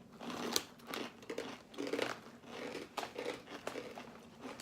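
Small crunchy amarettini almond cookies being bitten and chewed, making crisp crunches in irregular bursts.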